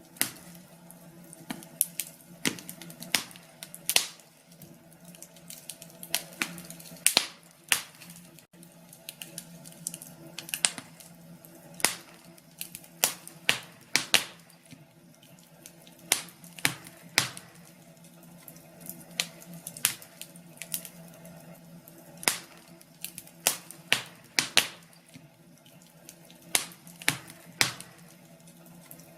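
Wood fire crackling, with irregular sharp pops, at times several a second, over a faint steady hum.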